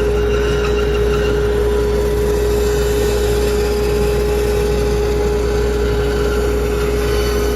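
A motor-driven machine running steadily, a constant hum with one strong steady tone over an even rushing noise.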